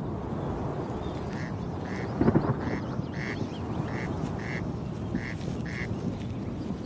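Corncrake calling: a rasping double note, crex-crex, given four times at about one-second-and-a-bit intervals, over a steady wind rumble. A brief louder rumble comes about two seconds in.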